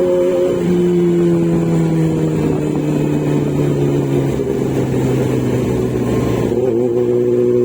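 Motorcycle engine running on the road, its pitch sinking slowly as the bike slows for several seconds, then rising again near the end.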